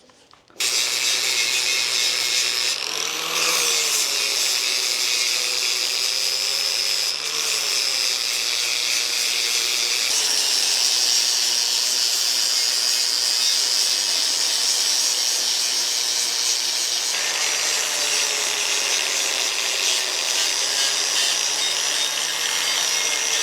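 Electric grinder starting about half a second in and running steadily, grinding down a fresh MIG weld on an aluminum wheel; its pitch wavers briefly a few times.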